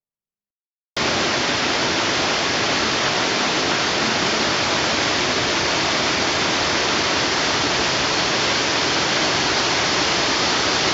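Steady rush of falling water from a waterfall, cutting in suddenly about a second in after silence.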